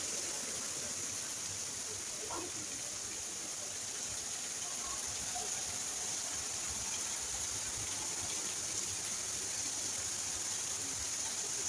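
Steady rainfall: an even, unbroken hiss of rain, with water running and splashing.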